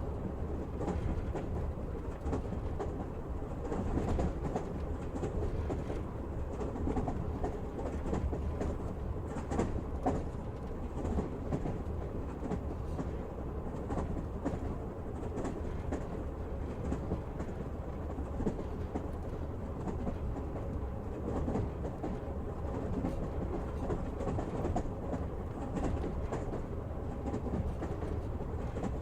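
Passenger train running: a steady rumble of the carriage with the clickety-clack of the wheels over the rail joints.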